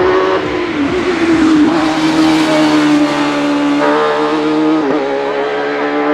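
Racing car engine running hard and steady, its pitch holding nearly level with a few brief dips about a second in, near two seconds and near five seconds.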